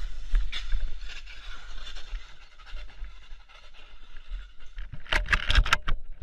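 Car road noise picked up by a dashcam: a low rumble with scattered knocks and rattles. About five seconds in comes a quick run of loud clatters, and then the sound cuts off suddenly.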